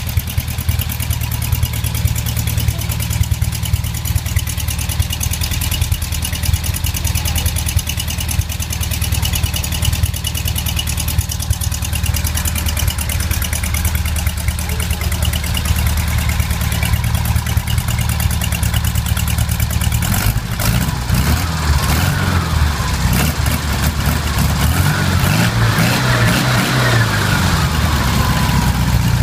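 VW air-cooled flat-four engine with an Okrasa tuning kit idling steadily. From about twenty seconds in the note turns uneven, with rising and falling pitches as the engine speed changes.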